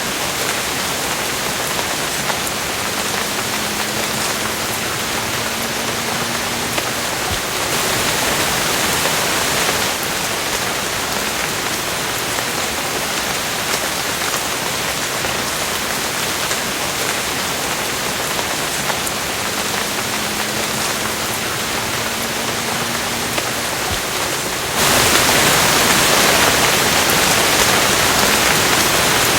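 Steady rain falling, an even hiss of many drops. It grows heavier for a couple of seconds about eight seconds in, and turns suddenly louder near the end.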